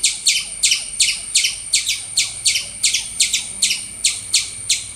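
Squirrel chirping in a rapid, even series, about three short, falling chirps a second.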